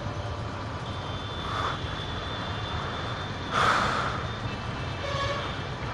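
Steady low rumble of vehicle engines and road noise in traffic, with a brief louder rush of noise about three and a half seconds in.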